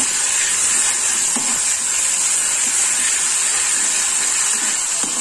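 Sliced onions and ginger-garlic paste frying in hot oil in a kadhai, with a steady high sizzle.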